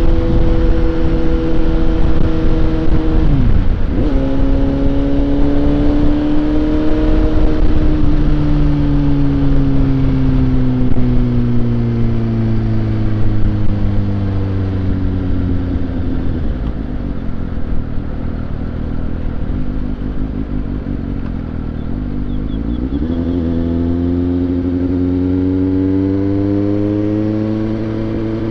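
Suzuki GSX-S750's inline-four engine on the move. About three seconds in, its pitch drops sharply with a gear shift and then climbs again. It then winds down slowly for a long stretch, and near the end it dips and rises once more as the bike accelerates.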